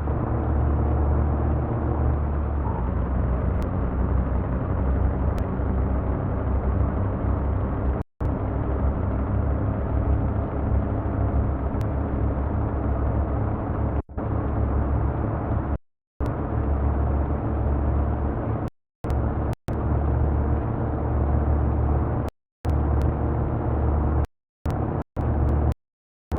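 Truck engine running steadily at a low, even speed. The sound cuts out abruptly to silence several times, more often toward the end.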